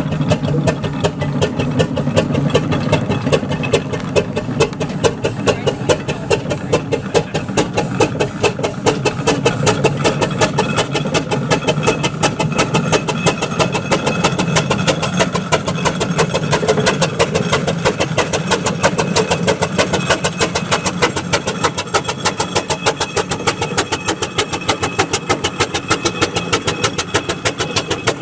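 Vintage engine running steadily with a quick, even beat.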